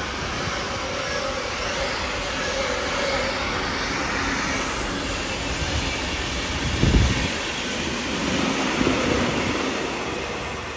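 Freight train wagons rolling past on the rails with a steady, even rolling noise, and a single low thud about two-thirds of the way through.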